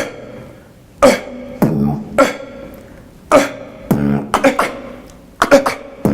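Solo human beatboxing built on vocal imitations of animals: sharp percussive mouth hits at uneven spacing, each trailing off in a quick falling glide of pitch, over deep held bass tones.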